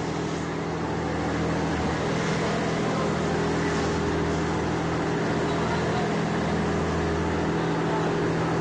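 An engine running steadily, a hum of several fixed tones, under a continuous loud hiss.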